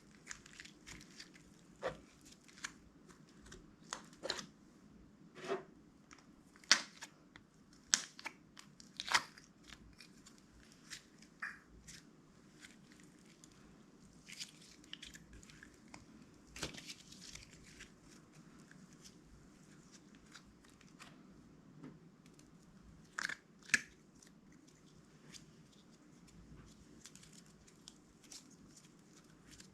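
Clear slime being kneaded and stretched by hand, giving irregular sticky pops, clicks and crackles, a few of them much louder than the rest.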